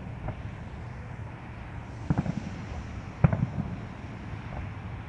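Distant fireworks going off: a quick cluster of bangs about two seconds in and another just after three seconds, over wind on the microphone.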